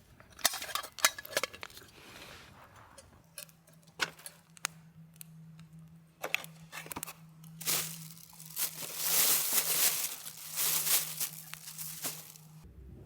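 Handling noises: scattered small clicks and knocks, then a few seconds of crinkling and rustling, with a faint steady hum underneath.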